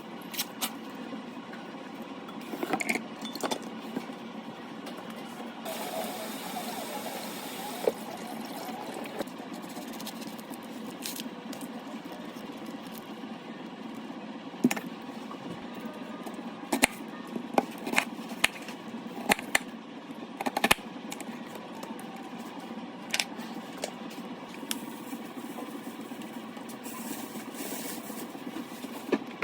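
A steady background hum with scattered sharp clicks and knocks, several of them bunched together in the middle.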